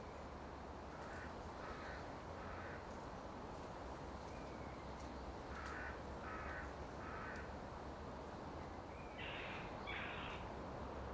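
A bird calling in short harsh notes in groups of three, with two stronger calls near the end, over a steady low forest background.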